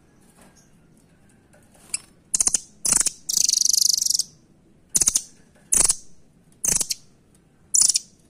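Rambatan (velvet-fronted nuthatch) calling in short, sharp, high rattling trills, about seven of them, one held for about a second near the middle.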